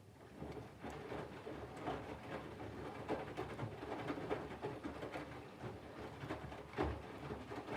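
Candy GVF4 137 LWHC/2 front-loading washing machine drum starting to turn right at the start, tumbling wet laundry and water with irregular soft knocks and splashes. This is the drum action during the water-heating phase of the wash cycle.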